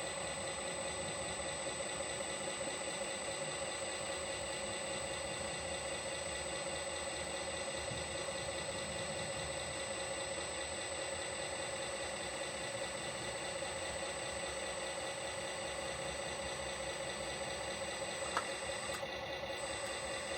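Tamiya Globe Liner RC model truck giving a steady engine-like idling drone with a light rattle, unchanging throughout. A single short click comes near the end.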